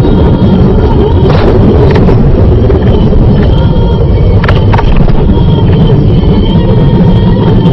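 Loud, steady vehicle engine and road rumble, with a few short sharp clicks about a second and a half in and again around four and a half seconds in.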